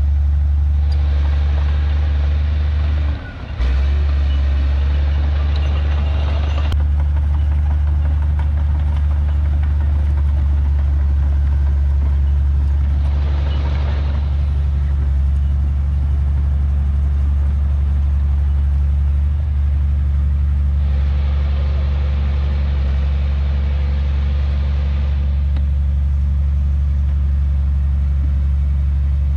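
Heavy diesel engine of earthmoving machinery running with a steady low drone. Stretches of rougher, higher noise come and go over it, and the sound briefly dips about three seconds in.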